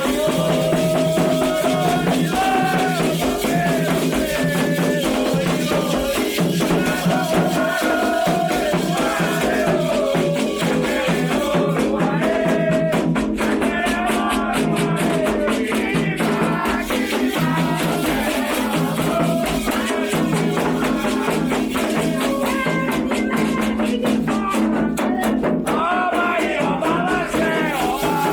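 Candomblé ritual song: voices singing a melody over rapid hand percussion and steadily shaken rattles.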